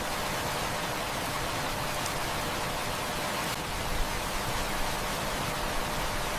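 Heavy rain falling steadily, an even hiss, with a few faint crackles from a wood fire, one a little louder about four seconds in.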